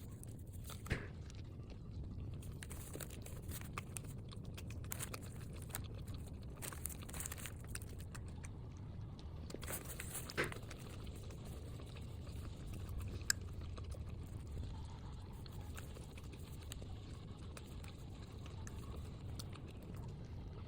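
A person biting into and chewing a chicken paratha roll, with scattered crunches and clicks over a steady low hum.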